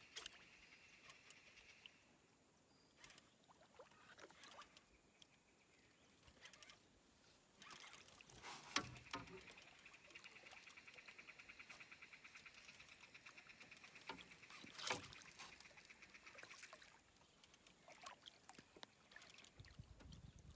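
Faint high-pitched, rapidly pulsing trill of a calling rainforest animal, coming and going, with scattered sharp knocks; the loudest knocks fall about nine and fifteen seconds in.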